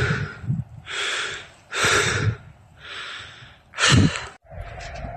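A cyclist breathing hard while riding: three long breaths about a second apart, then a sharper, louder breath about four seconds in. A faint steady hum follows near the end.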